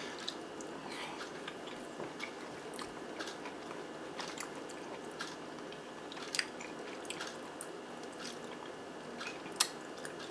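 Close-miked chewing of a mouthful of zucchini boat topped with ground turkey and melted cheese: a run of small wet mouth clicks, with a sharper click about six seconds in and another near the end.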